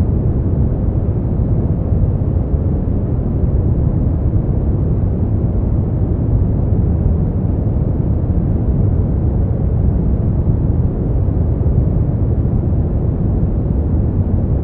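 Brown noise: a steady, deep rushing hiss, strongest in the low end and falling off toward the highs, with no changes.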